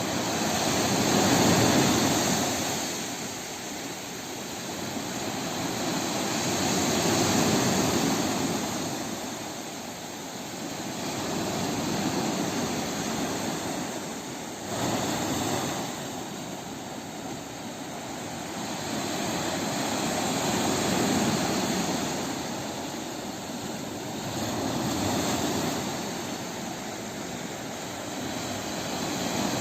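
Sea waves washing ashore, a continuous surf roar that swells and ebbs about every four to six seconds.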